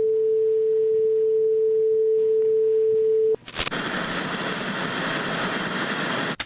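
Old television at the end of the day's broadcast: a single steady test tone sounds, stops about three and a half seconds in, and gives way to the hiss of TV static. The static then cuts off abruptly at the end.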